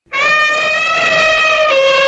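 Goat bleating: one long, loud, clear call that steps down in pitch late on.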